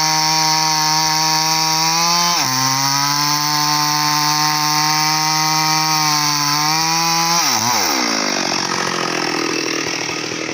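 Stihl MS 382 two-stroke chainsaw running at high revs and cutting teak. Its pitch drops about two seconds in as the chain takes load in the wood and holds lower, comes back up near seven seconds, then falls away into a rougher, noisier sound near the end.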